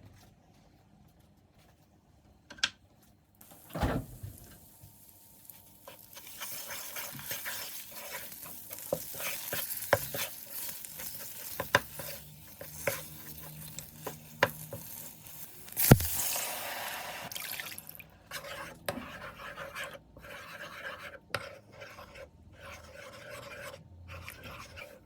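Cooking sounds: a utensil stirring and clinking against cookware, with a hiss from about 6 to 18 seconds in and a sharp clack near 16 seconds.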